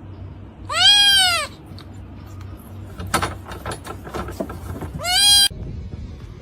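An animal calling twice, about four seconds apart: each a loud, drawn-out cry that rises and then falls in pitch, with a few light knocks between the calls.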